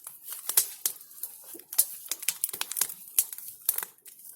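Large wood bonfire crackling, with irregular sharp pops and snaps several times a second.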